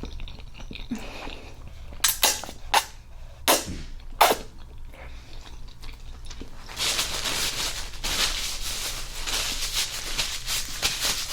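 Handling noise at the table: about five sharp clicks and knocks in the first half, then a steady crinkly rustle from about seven seconds in.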